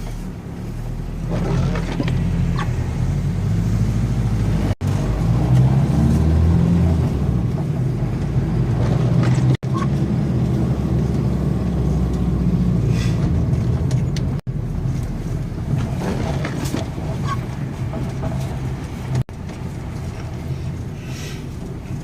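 A motor vehicle's engine running steadily with a low rumble, the sound cutting out for an instant about every five seconds.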